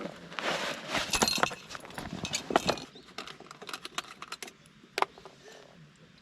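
Clinking and rustling of camping gear being handled, busy for the first three seconds, then a few scattered clicks with one sharper click about five seconds in.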